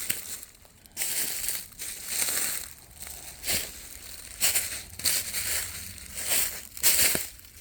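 A hiker's footsteps crunching on a dry trail, one step about every half second to a second at a steady walking pace.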